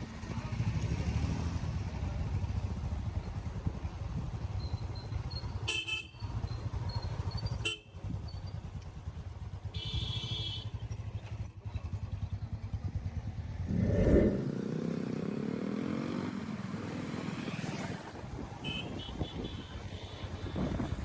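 Motorcycle running on the road with engine and wind rumble. Vehicle horns honk several times, most clearly about ten seconds in, and an engine swells loudly about two-thirds of the way through.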